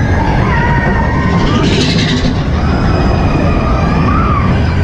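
Mine-train roller coaster running along its track, heard from on board: a loud, steady rumble and rattle, with a brief hiss about two seconds in.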